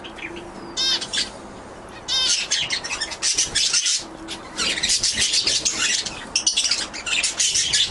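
Pet canaries chirping and singing. There are a few quick warbled trills in the first two seconds, then dense, fast high-pitched chirping and song that keeps going.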